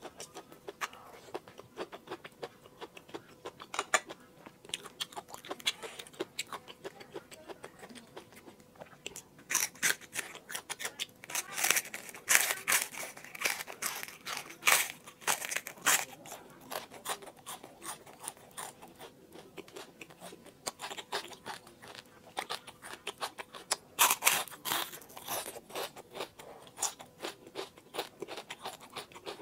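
Close-miked chewing and crunching as a whole fried fish is bitten and eaten, with many sharp crunches; the crunching is loudest in two spells, one around the middle and one near the end.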